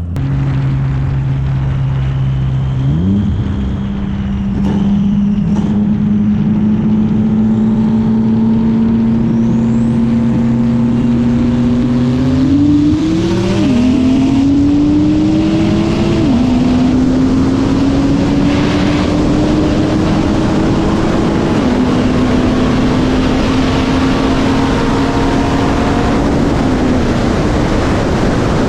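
Car engine under hard acceleration in a race, its pitch climbing steadily through each gear and dropping back at the upshifts, about four times.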